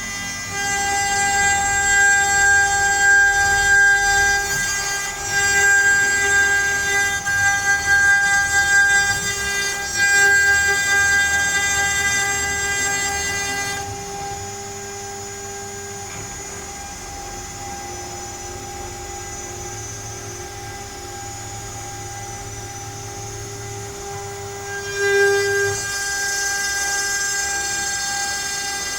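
CNC router milling letters into pine: a steady high-pitched spindle whine mixed with cutting noise. It is louder for roughly the first half, drops quieter through the middle, then rises again near the end.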